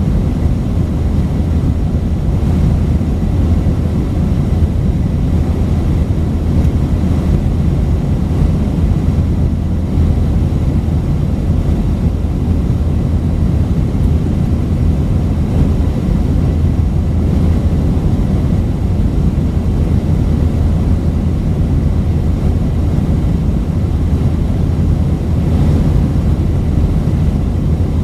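Steady cabin rumble of an Airbus A319-132 airliner, its IAE V2500 engines and airflow heard from a window seat as an even, deep noise that does not rise or fall.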